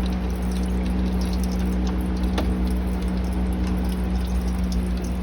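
Hot engine oil pouring from the open drain hole of a car's oil pan into a drain pan, coming out unevenly rather than as a smooth stream, over a steady low hum. One short click about two and a half seconds in.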